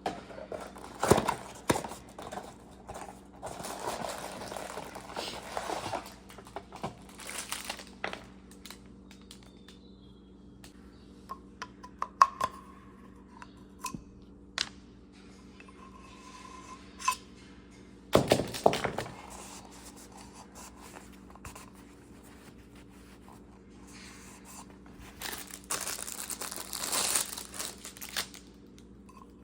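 Hands handling packaging: crinkling, crumpling and tearing in irregular spells, with scattered sharp clicks and knocks.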